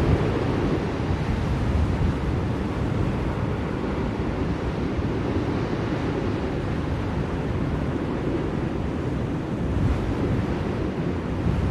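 Blizzard wind blowing steadily, a dense rushing noise heaviest in the low end that swells and eases slightly.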